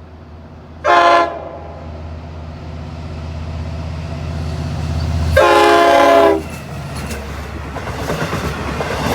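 Long Island Rail Road diesel train approaching, its engine's low drone growing louder. Its horn sounds a short blast about a second in and a longer blast past the halfway mark, then the rumble and clatter of the passing cars builds.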